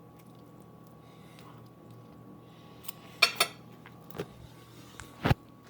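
Tableware clinking during a meal: about six sharp clicks and knocks in the second half, after a few seconds of quiet room noise.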